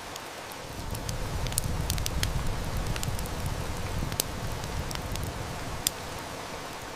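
Steady hiss of heavy rain mixed with a wood fire crackling, with several sharp snaps and pops. A low rumble of distant thunder swells about a second in and fades away by about five seconds.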